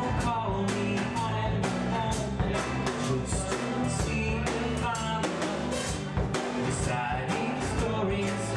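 Live band playing an instrumental passage: a plucked-string lead melody over bass guitar and a drum kit keeping a steady beat.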